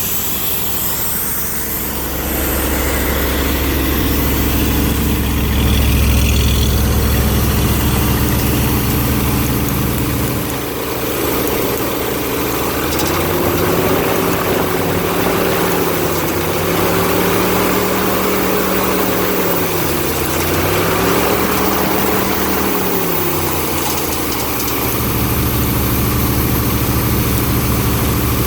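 Ford 351 Windsor V8 running with a swapped-in cooling fan. The fan is catching on its fiberglass shroud: a hitting sound. Near the middle the engine is revved up and held, dips once briefly, then drops back to idle.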